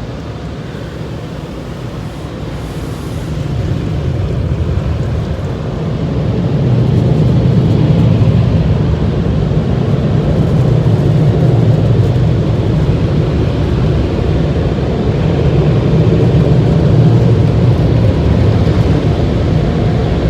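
Automatic car wash machinery heard from inside the car: a loud, steady rushing roar that builds over the first several seconds and then holds.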